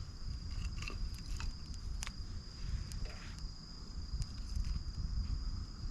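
Small, newly lit twig campfire crackling with scattered sharp pops, over a low rumble and a steady high insect trill.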